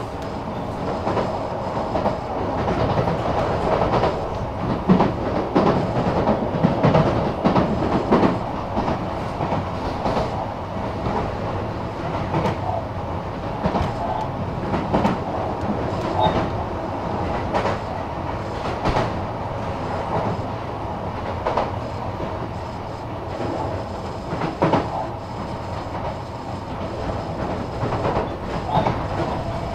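Sotetsu Series 20000 electric train heard from inside the car, running at speed. The wheels click over rail joints again and again, over a steady whine from the drive and a low rumble.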